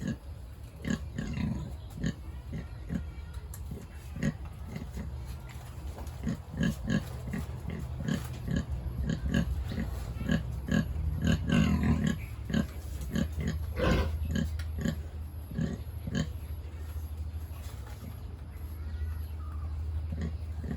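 Sow grunting over and over in short, low grunts, about two a second, coming thickest in the middle stretch.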